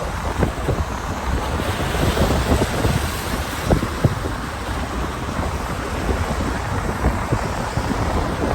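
Wind buffeting the microphone: a steady rushing noise with a low rumble and irregular gusts.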